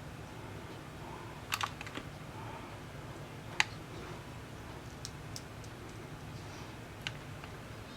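A few sharp, scattered clicks and taps from small tools and parts being handled while taking apart a tablet: a short cluster, one loud click in the middle, a few faint ticks and one more click near the end, over a steady low hum.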